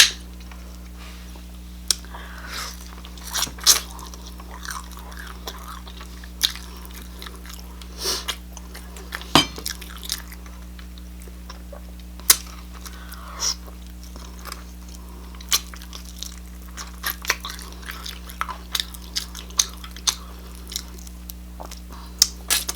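Close-miked eating sounds: irregular chewing, smacking and crunchy bites, over a steady low electrical hum.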